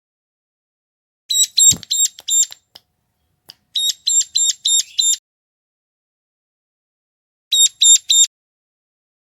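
Ciblek gunung, a prinia, calling: three bursts of rapid, sharp, high chipping notes, about four a second, with silent pauses between, the first burst carrying a brief low thump.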